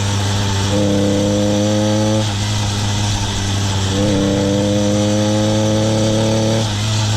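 Small engine on a motorised bicycle idling while it warms up from a cold start. It runs with a steady low drone, and twice a higher-pitched tone joins in for a second or two.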